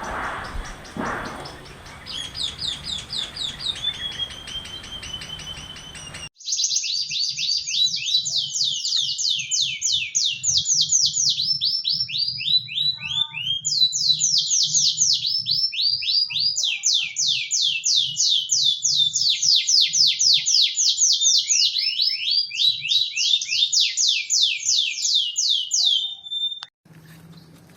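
Songbird singing: a run of fast, high, repeated trill phrases that sweep downward, loud and nearly unbroken. A softer stretch of higher chirping series comes first, then cuts off abruptly about six seconds in.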